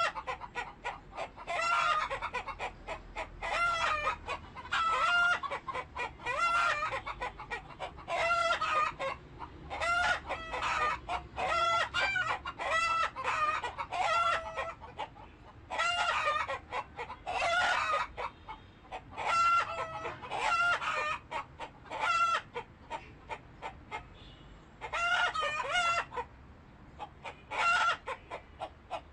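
Chickens calling: roosters crowing and hens clucking in a long run of repeated calls, one every second or two, with short clucks between them.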